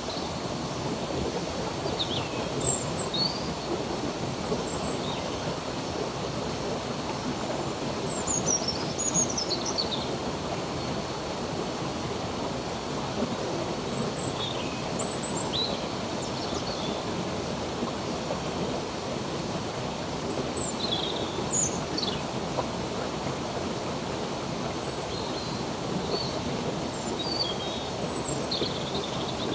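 Stream water flowing steadily, with short bird chirps and whistles scattered over it every second or two.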